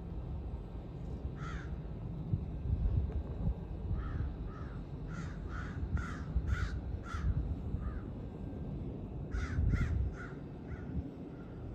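A bird calling in a series of short repeated calls: one near the start, a run of about nine from about four seconds in, and a few more near the end, over a steady low rumble.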